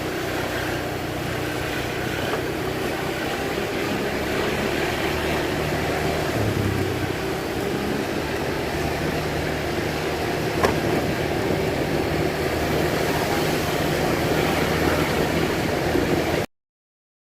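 A vehicle engine running steadily under a wash of road and wind noise while travelling, with a single sharp click about two-thirds of the way through; the sound cuts off abruptly just before the end.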